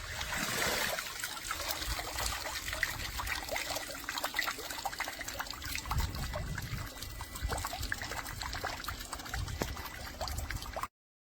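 Water trickling and splashing, with many small drips and droplet splashes over a low rumble. It cuts off abruptly near the end.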